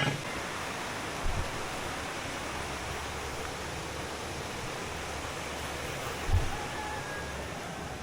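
Steady rushing noise of flowing river water, with two dull low thumps, one about a second in and one near six seconds.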